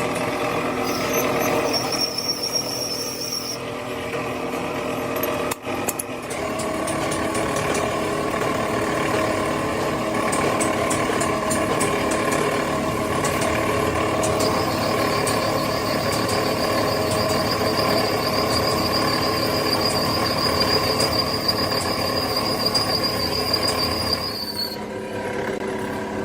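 A machine's motor running steadily with a humming drone. It breaks off briefly about five and a half seconds in, and a thin high whine joins it from about fourteen seconds in until near the end.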